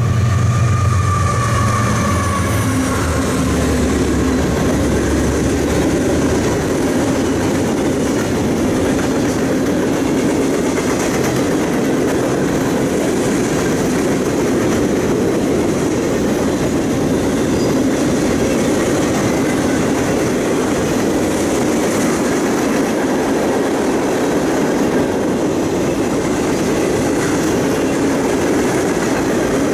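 A passing train: the deep rumble of its locomotive fades over the first few seconds, then the steady rolling noise of rail cars going by on the track continues.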